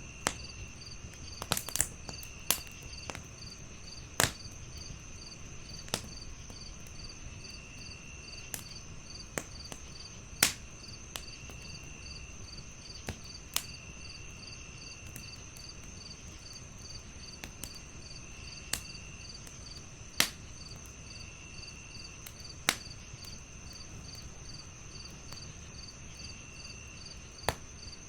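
Wood fire in a fireplace crackling, with irregular sharp pops, the loudest about a third and two thirds of the way through, over a steady chorus of crickets: a continuous high trill, an even chirp about twice a second, and short trills coming and going.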